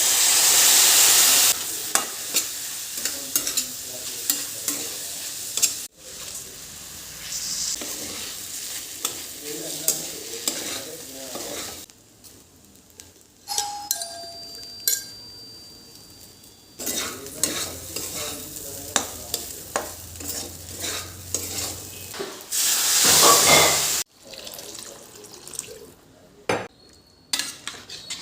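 Food sizzling in a hot pan while a utensil stirs and scrapes it, with many sharp clicks against the pan. The sizzle surges loudly near the start and again about 23 seconds in.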